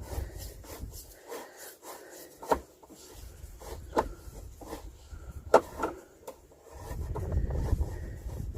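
Scattered knocks, clicks and rubbing of hands and tools on a motorhome's electric step housing as it is being taken apart, the loudest knock about halfway through, over a low rumble that fades out early and returns near the end.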